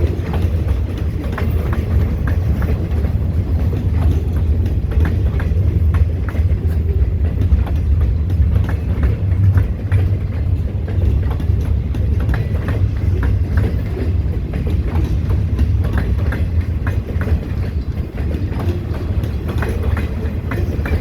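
Freight train cars rolling past at close range: a steady low rumble of steel wheels on rail, with frequent sharp clacks as the wheels cross rail joints.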